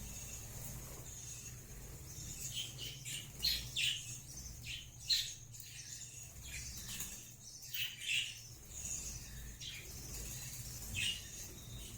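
Budgerigars chirping in short, scattered calls that come thickest in the middle, over a faint steady high tone and a low hum.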